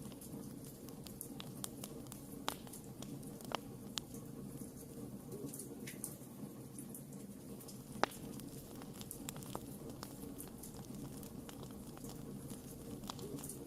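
Wood fire crackling: irregular sharp snaps and pops over a steady low hiss of burning, with one louder pop about eight seconds in.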